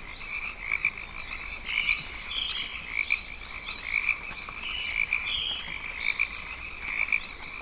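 A chorus of frogs calling in a tropical rainforest: a steady, pulsing mass of repeated calls, with many short rising chirps over it.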